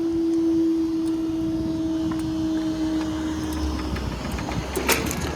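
Level crossing barrier mechanism whining on one steady pitch as the barriers rise, stopping about four seconds in. A low road-traffic rumble follows, with a sharp click near the end.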